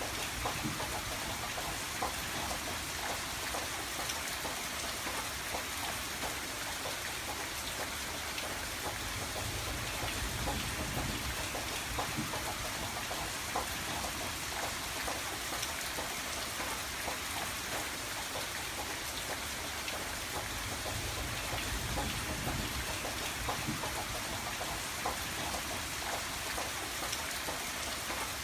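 Steady rain falling, with many small drops tapping on window glass and a low, even rumble underneath.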